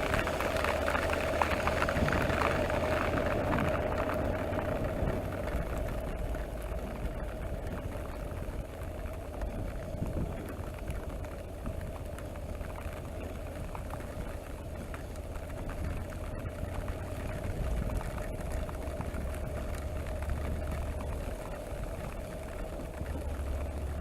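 Honda NC700X motorcycle's parallel-twin engine running at a steady speed under wind and wet-road noise; the hiss dies down after about four seconds.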